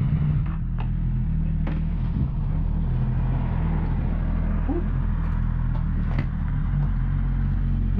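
Yamaha Tracer 900's three-cylinder engine running through an Arrow aftermarket exhaust while riding. The note steps down slightly about half a second in and then holds steady, with a few short clicks over it.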